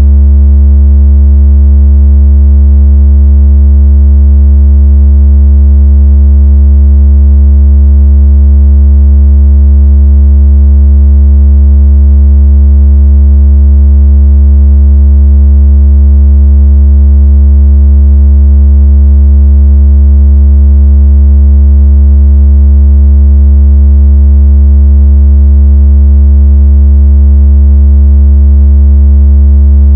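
A loud, deep, steady electronic sine tone with faint higher overtones, unchanging. It is a synthesized bass tone of the kind played to shake water out of a phone speaker.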